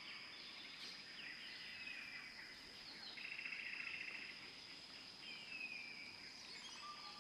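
Faint birdsong: several short falling chirps and a buzzy trill lasting about a second, starting about three seconds in, over a steady high-pitched tone.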